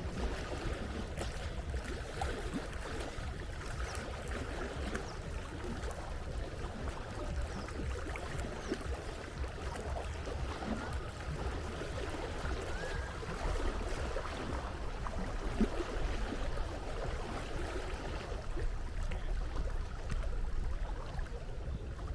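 Sea water washing and lapping steadily, with a low rumble underneath.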